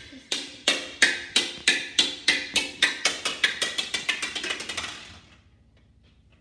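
Hollow plastic toy ball bouncing across a hard floor: a run of sharp, ringing knocks, about three a second, that come quicker and fade out about five seconds in.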